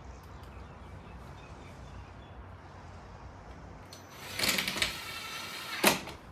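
Power drill spinning up for about a second and a half, a motor whine with a steady pitch, starting about four seconds in after a low background hum and ending with a sharp knock.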